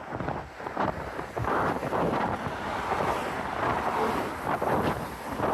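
Wind buffeting the microphone of a moving bike rider, mixed with road traffic going by close at hand, louder through the middle.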